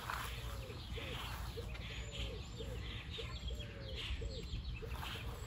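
A bird calling over and over in short, low, arching notes, about two a second, over patchy rustling noise.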